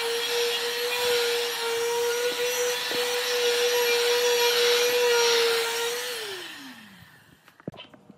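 Electric power tool motor running at a steady high speed, then switched off about six seconds in, its pitch falling as it winds down. A few light clicks follow near the end.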